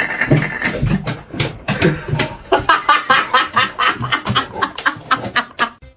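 A person laughing hard in a rapid run of short bursts, building about halfway through.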